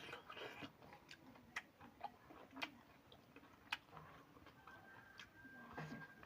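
Faint eating sounds close to the microphone: sparse, sharp mouth clicks and soft chewing, roughly one click a second.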